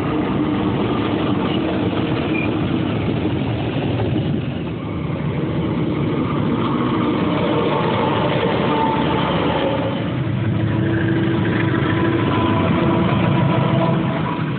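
A pair of KAI CC206 diesel-electric locomotives at the head of a passenger train, passing close by with their engines running, followed by the passenger coaches rolling past on the rails. The sound is loud and continuous, dipping slightly about five seconds in.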